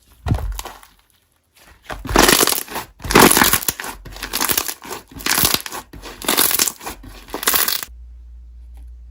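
Slime being squeezed and pressed, crackling and crunching in repeated bursts about once a second, then stopping near the end.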